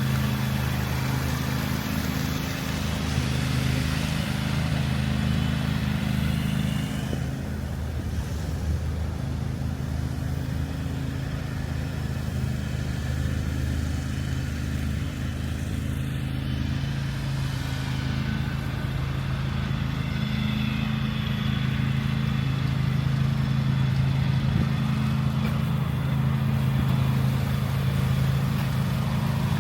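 Steady low hum of a motor vehicle engine running nearby, with faint street noise underneath.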